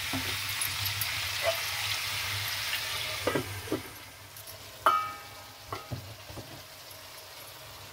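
Pumpkin cubes sizzling in mustard oil in a wok, with a spatula scraping and tapping as they are stirred. After a knock about three seconds in, a glass lid goes on and the sizzle drops to a faint hiss. Near five seconds the lid clinks against the wok with a short ringing note, and a couple of light knocks follow.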